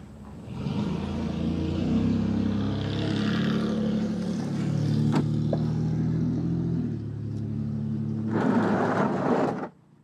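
Dodge Durango's engine running after fresh oil has gone in. It grows louder about half a second in, holds a steady pitch that shifts a few times, gets a louder rush of noise near the end, then cuts off abruptly.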